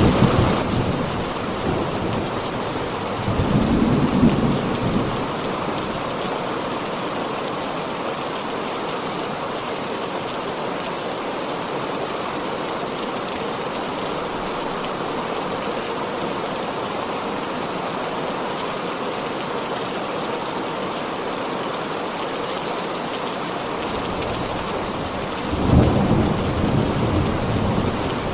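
Heavy rain pouring steadily, with rolls of thunder rumbling low: one about four seconds in and another starting near the end.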